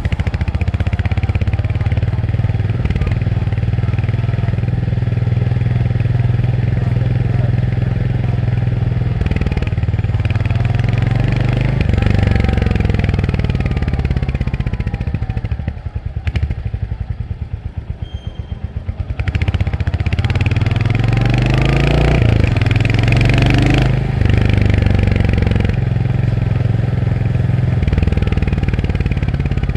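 Royal Enfield Hunter 350's 349 cc single-cylinder engine running under way. The revs climb and drop through gear changes. It eases off to a quieter low beat about halfway through, then pulls up through the revs again.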